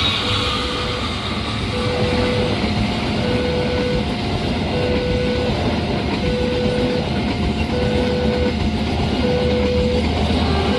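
A train running past over the rails with a steady rumble, while a railway level-crossing warning alarm repeats two alternating tones, each tone about a second and a half after the last.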